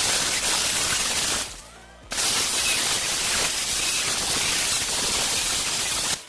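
A loud, steady hiss in two long stretches, broken by a short pause about a second and a half in, and cutting off near the end.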